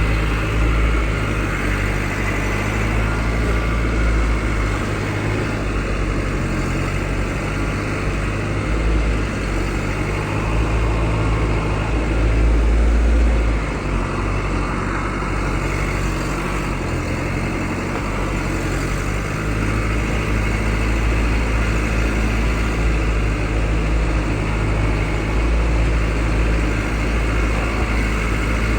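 A pickup truck on the move: a steady engine drone with a continuous rush of wind and road noise, the engine note shifting a little around the middle.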